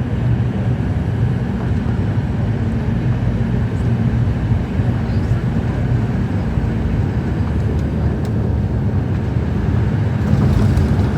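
Airliner cabin noise during landing: a steady low rumble of engines and airflow heard from inside the cabin, growing a little louder near the end.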